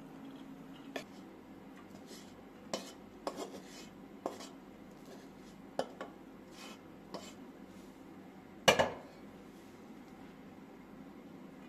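Dishes and cutlery being handled in a kitchen: a handful of light clinks and knocks spread out about a second apart, then a louder clatter about nine seconds in, over a faint steady hum.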